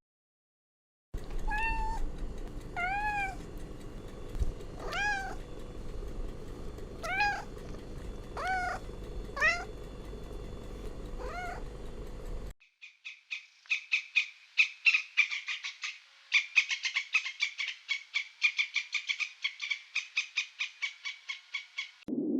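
Domestic cat meowing about seven times, each meow rising and then falling in pitch, over a low background hum. About halfway through this gives way to a fast string of high, short chirps, several a second, which continues to near the end.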